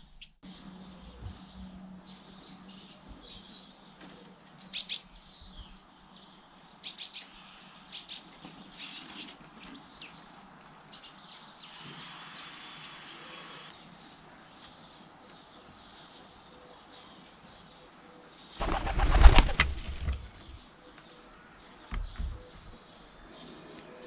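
Garden birds chirping now and then, and about three-quarters of the way through a loud clatter of wings as a pigeon flies in and lands. A few short, high, falling calls follow near the end.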